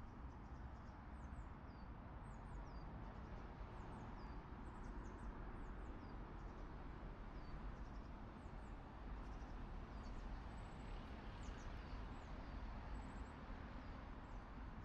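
Small birds calling with many short, high chirps and quick falling notes, scattered throughout, over a faint steady outdoor hiss.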